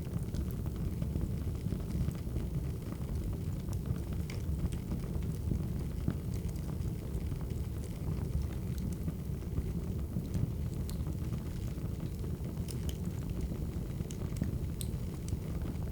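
Wood fire burning: a steady low rumble with scattered small crackles and pops, more of them in the second half.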